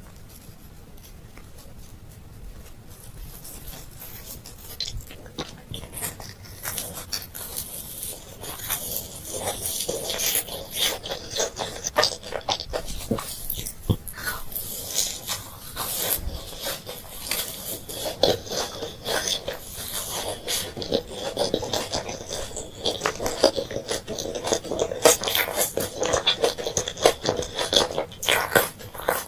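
Close-miked eating of candy: quick, crisp crunches and sticky chewing clicks. It starts faint and gets denser and louder after the first few seconds.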